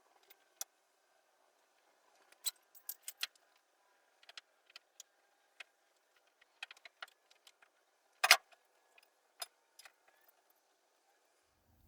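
Scattered small metallic clicks and clinks of hand tools and bolts while exhaust headers are being fitted, with one louder clank about eight seconds in.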